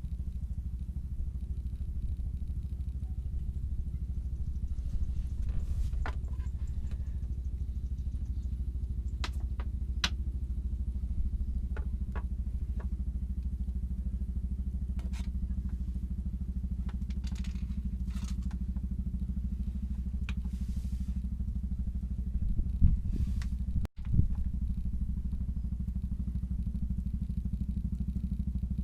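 A steady low hum like a running motor, with scattered faint clicks and one louder knock about 23 seconds in.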